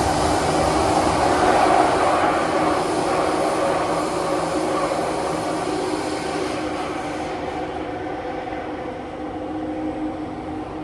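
Loud cabin noise of a Kawasaki–CRRC Qingdao Sifang CT251 metro train running through a tunnel: a dense roar of wheels on rail and tunnel air with steady humming tones, gradually getting quieter.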